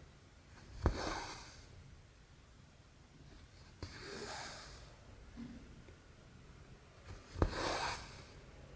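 Needle and cotton thread being pulled through 11-count cross-stitch fabric three times. Each stitch is a sharp tick as the needle pierces the cloth, followed by a hissing swish of about half a second as the thread is drawn through.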